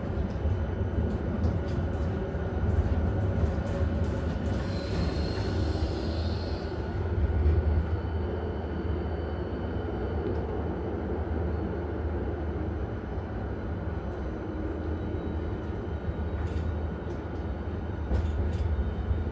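Helsinki tram running with a steady low rumble and a faint high motor whine, a brief high squeal about five seconds in, and a few sharp clicks near the end.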